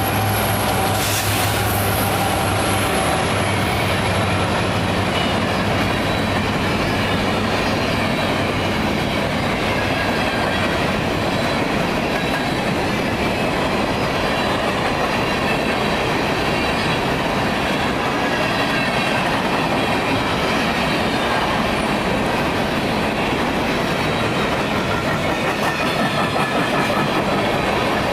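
A train passing close by: a steady rumble and clatter of wheels on rail, with some wheel squeal. A low engine drone is strong at first and fades within the first several seconds as the cars keep rolling past.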